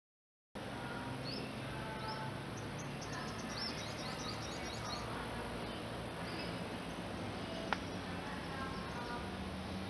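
Outdoor garden ambience: small birds chirping in quick runs of short, high notes during the first half, over a steady background hiss and low hum. A single sharp click near the end.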